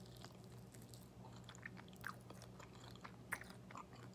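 Faint chewing of a chicken wing, with scattered small wet mouth clicks and smacks, the sharpest about three seconds in, over a steady low hum.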